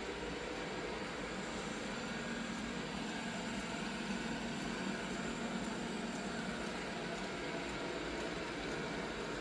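Robot vacuum cleaner running with a steady whirring motor noise and a faint low hum.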